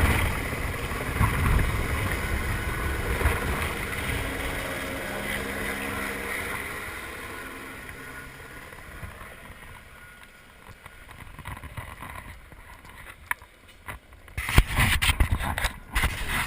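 Helicopter rotor and engine noise fading away steadily as it leaves after a hover drop-off. Sharp bumps and gusts of wind on the microphone follow near the end.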